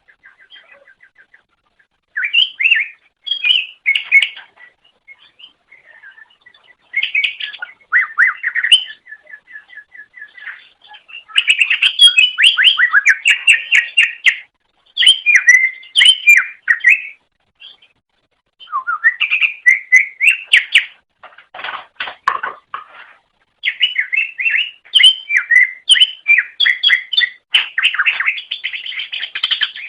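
Cucak ijo (leafbird) singing: a varied song of rapid chattering trills and whistled chirps, delivered in bouts of a few seconds with short pauses between them.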